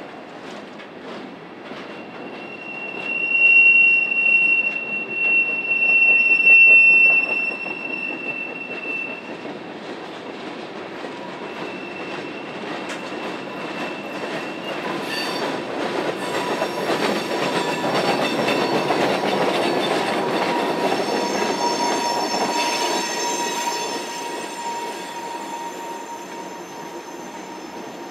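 Norfolk Southern freight train rolling past, its wheels squealing in a long, steady, high-pitched tone that is loudest in the first third. The rumble of the passing cars then builds to a peak about two-thirds of the way through, with a fainter squeal, and eases off near the end.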